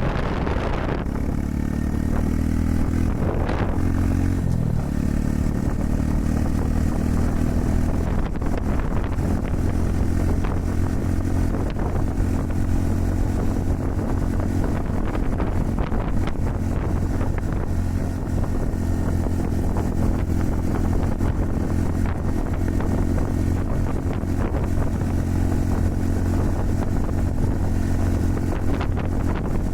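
Honda Super Cub 110's small single-cylinder four-stroke engine running under way, its pitch shifting over the first few seconds and then holding steady at cruising speed, with strong wind rushing over the microphone.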